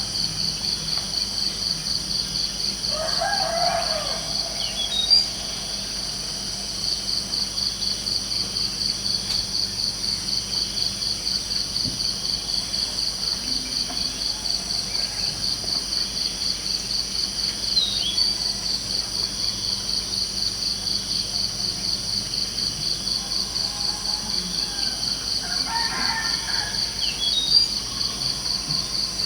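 Crickets chirping steadily in a fast, even pulsing trill. A bird calls twice, once a few seconds in and again near the end, with a few short high chirps in between.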